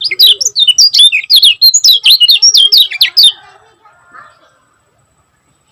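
Kecial kuning (Lombok white-eye) singing a fast, tightly packed run of sharp high chirps, stopping about three seconds in.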